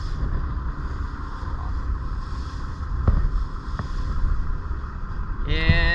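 Wind buffeting the microphone over a steady low rumble, with a faint click about three seconds in.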